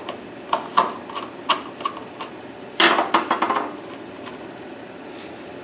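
Metal hand tools clinking and tapping as a socket and nut driver are set to small screws, a few separate clicks and knocks, then a quick loud run of rattling clicks about three seconds in.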